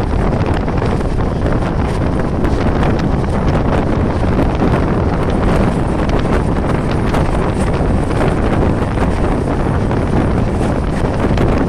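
Wind rushing over the microphone from a moving passenger train, over the steady rumble of LHB coaches rolling along the track.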